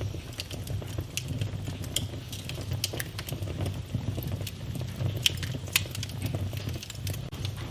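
Wood fire burning in a fireplace, crackling with irregular sharp pops over a steady low rumble; two louder pops come a little past the middle.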